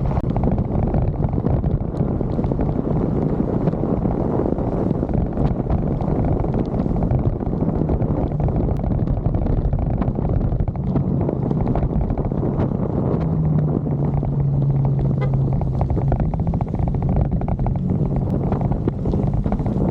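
Motorcycle engine running steadily under a dense rush of wind and road noise, its hum a little stronger for a few seconds past the middle.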